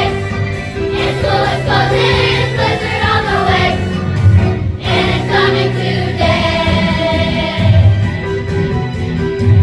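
A children's choir singing a Christmas song with piano-style accompaniment over a steady bass line.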